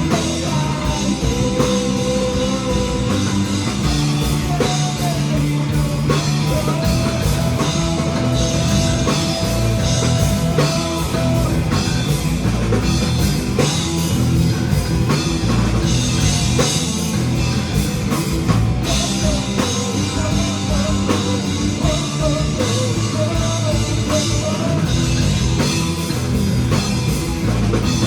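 Rock band playing live on drum kit and guitar, a steady loud full-band sound with held melodic lines over the beat.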